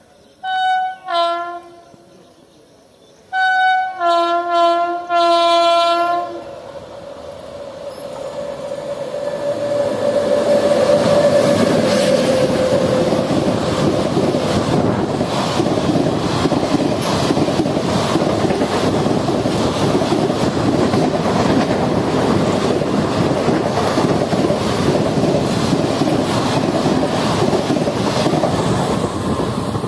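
WAP7 electric locomotive's horn: two short blasts, then a run of longer blasts, as the train approaches at speed. Then the loud rush of the passing train builds and holds, with the rhythmic clickety-clack of ICF coach wheels over the rail joints as the coaches run past close by.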